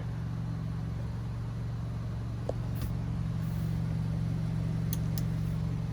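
Car engine idling steadily, a low even hum, with a few faint clicks in the middle and near the end.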